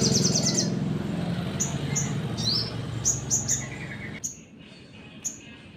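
A sogon songbird calling with short, sharp, high chirps and an upward-sweeping note, spaced irregularly, over a low background hum that cuts out about four seconds in.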